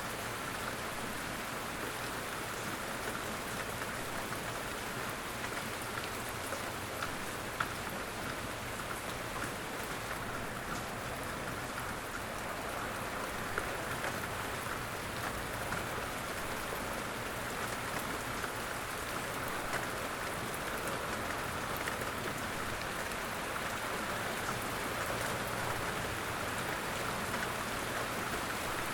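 Light, steady rain falling in woodland, an even patter with scattered individual drops ticking.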